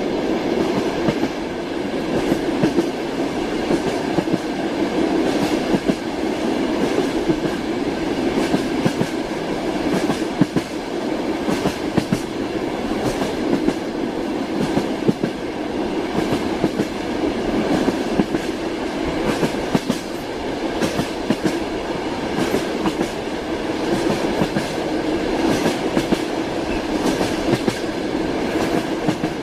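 Moving train: steady wheel-and-rail rumble with frequent irregular clicks as the wheels run over rail joints, the clickety-clack of a train in motion.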